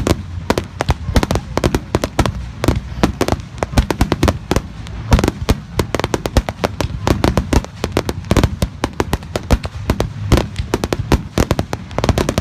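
Fireworks display going off in a dense, continuous run of sharp bangs and crackles, several a second, over a steady low rumble.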